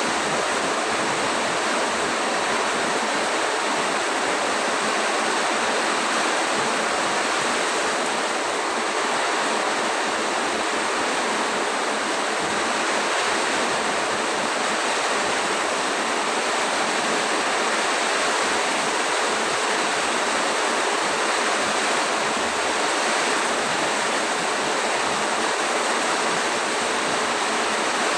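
Heavy rain pouring down in a storm, a loud, steady, unbroken rush.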